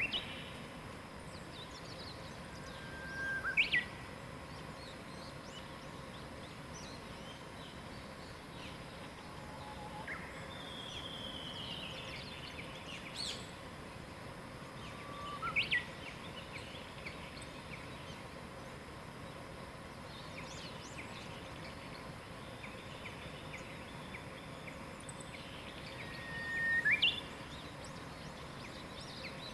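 Wild birds singing over a steady outdoor hiss: a louder whistled song comes about three times, each a held note that swells and then breaks into a quick upward flourish, with softer short calls and chirps between.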